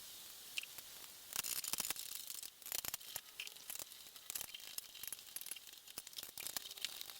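Faint clicks, taps and rustling of small parts and tools being handled, with a few louder rustles about one and a half seconds in.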